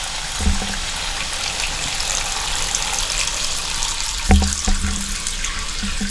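Water running steadily from an opened faucet, letting the pipes empty with the main supply shut off. A few short low knocks, one about half a second in and two more near four and a half seconds.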